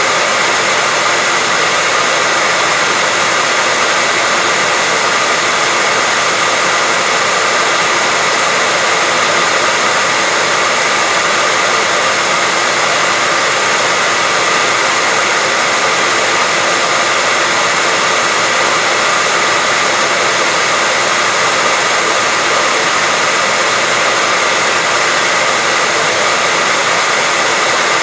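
Hair dryer running steadily at one speed: a continuous loud airy whoosh with a faint high whine, unchanging throughout.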